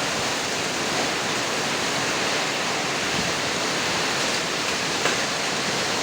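Heavy rain mixed with hail pouring down in a strong wind, a steady dense hiss with a sharper tap about a second in and another near the end.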